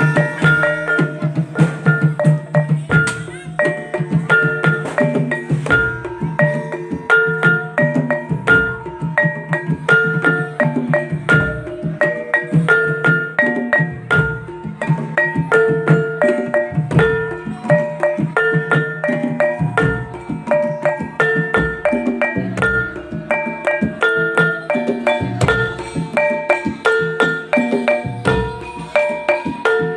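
Topeng Ireng dance music playing: a fast, repeating tune of short struck pitched notes over busy drumming.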